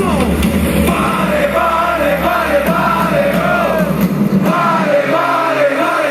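Loud live electronic dance music over a concert sound system, a wavering melody repeating over heavy bass, with the crowd yelling along. A falling sweep opens it, and the bass drops out about four and a half seconds in.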